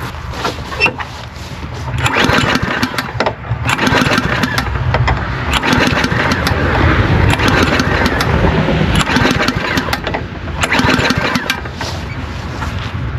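Lawnmower engine being cranked over in several tries, each a spell of rapid chugging with short pauses between, turning over without catching; it will not start, having had water in its carburetor.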